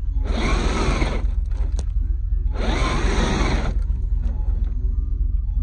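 Traxxas TRX-4 RC truck's electric motor and drivetrain revving up and back down in two short bursts, about a second each, as the truck climbs the bank. A steady low rumble runs underneath.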